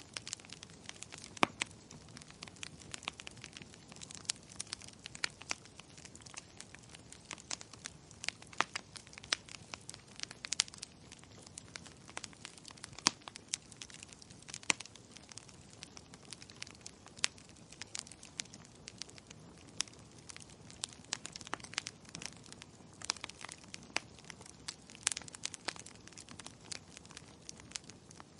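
Wood fire crackling: irregular sharp pops and snaps, several a second, over a soft steady hiss, with a few louder pops now and then.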